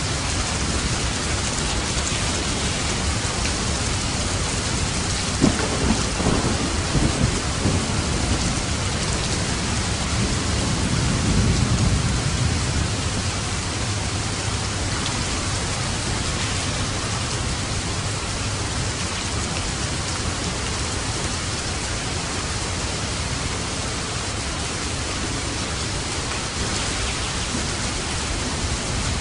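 Steady heavy rain pattering on a roof, with thunder cracking about five seconds in and a low rumble that swells around ten to twelve seconds in, then fades back into the rain.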